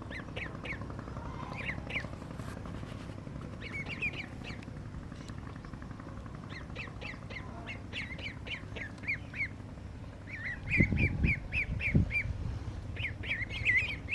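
Ducklings peeping: short, high chirps that fall in pitch, coming in runs of several at a time. A few low thumps come about three-quarters of the way through, over a steady low rumble.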